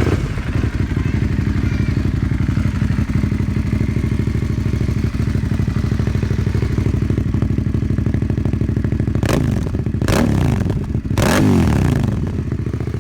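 Aprilia Caponord 1200's V-twin idling through a GPR Furore carbon slip-on exhaust, with a steady, even pulse, then three quick throttle blips near the end that rise and fall in pitch.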